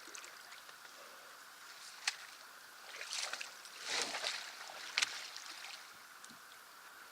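Canoe paddle strokes in the water, a soft swish about once a second, with a sharp knock about two seconds in and another at the last stroke, against a faint steady hiss of moving water.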